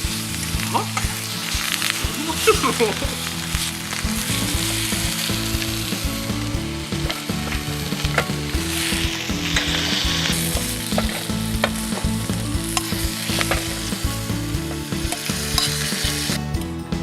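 Food sizzling as it fries in a pan, with scattered sharp clicks of a utensil stirring it. Steady held notes of background music run underneath.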